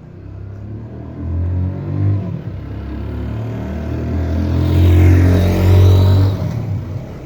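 Motorcycle engine revving, building up and loudest about five to six seconds in, then falling away near the end, like a bike passing close.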